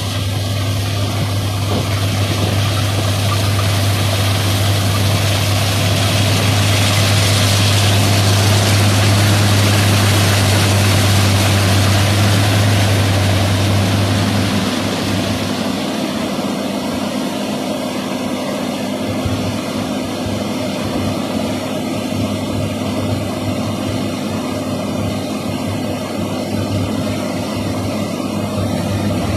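John Deere S780 combine harvester running in a rice field. It has a steady low engine hum and a broad rushing noise that grow louder toward the middle. About halfway through the low hum drops away, leaving the rushing noise at a slightly lower level.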